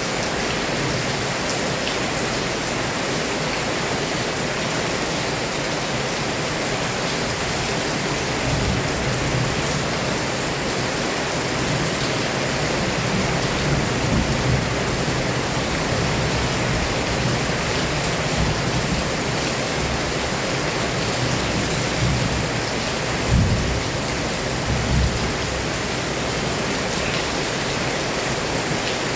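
Heavy rain pouring down steadily as a dense hiss, with a few low rumbles swelling up in the second half, the strongest about three-quarters of the way through.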